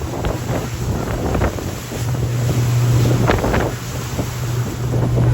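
Passenger ferry's engines droning steadily at speed, with wind buffeting the microphone. The drone grows louder about two seconds in.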